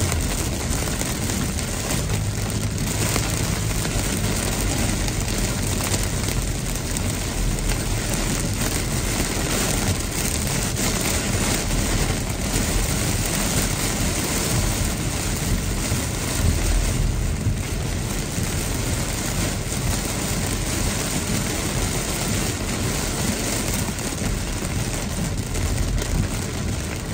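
Heavy rain falling on a car's roof and windshield as a steady, dense hiss, with the low rumble of the car and its tyres on the wet road underneath.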